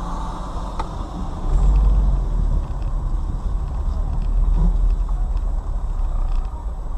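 Car driving, heard from inside the cabin: a steady low engine and road rumble that swells twice, about a second and a half in and again past the middle.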